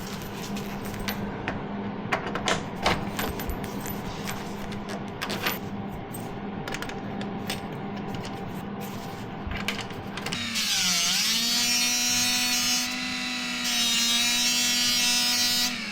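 Scattered clicks and knocks of handling over a low hum, then about ten seconds in a TIG welding arc strikes and buzzes steadily with a high, many-toned whine for about five seconds, its pitch dipping briefly as it starts, before cutting off.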